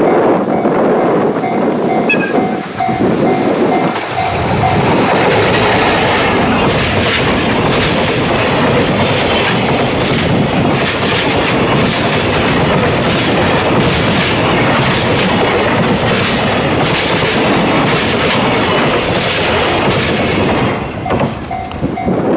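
Freight train of Koki container flatcars running past at speed: continuous rolling rumble with a regular clickety-clack of wheels over rail joints about once a second. A pulsing two-pitch tone sounds in the first few seconds and again near the end.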